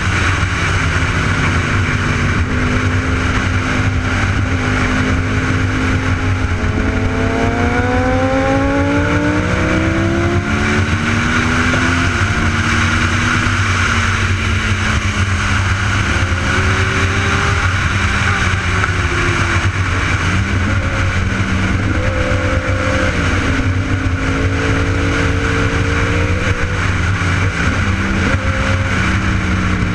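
Sport motorcycle engine under way, its note climbing as it accelerates and dropping back several times through the gears, over a steady rush of wind noise.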